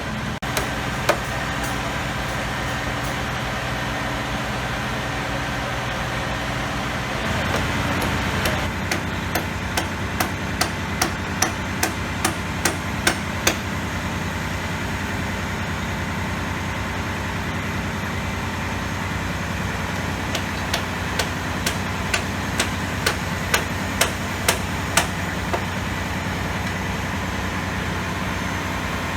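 Two runs of sharp, evenly spaced hammer-like blows, about two to three a second, over a vehicle engine idling steadily; the engine's hum shifts about a quarter of the way in.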